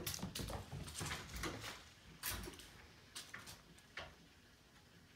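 Irregular light knocks and clicks from a cat chasing and batting its coiled spring toy. The knocks thin out after about four seconds.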